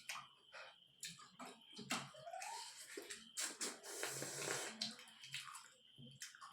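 Close-up eating sounds: wet chewing and slurping with many short sharp clicks, and a longer hissing slurp about halfway through.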